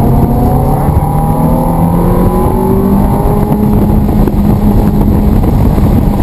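Sports car engine pulling hard under acceleration on a track, its pitch climbing steadily with a step or two as it runs through the revs, over loud road and wind noise.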